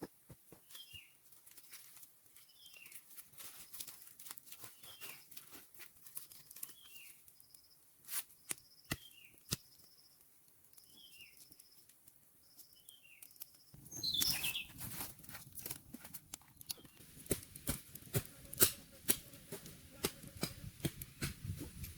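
A small animal's short falling chirp, repeated about every second and a half, with scattered clicks. About two-thirds of the way in, louder rustling with many sharp clicks and taps takes over.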